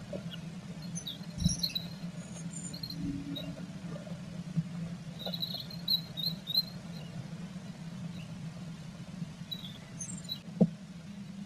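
Sounds from inside a blue tit nest box during incubation: faint high chirps and scratchy rustles, with a couple of sharp knocks near the start and near the end, over a steady low hum.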